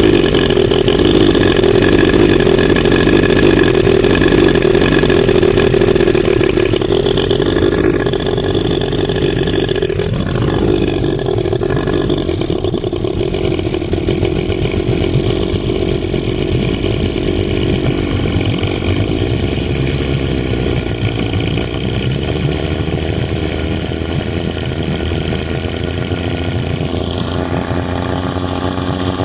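Boat motor running steadily, its pitch shifting about ten seconds in and again near the end; its carburetor overflows with excess fuel.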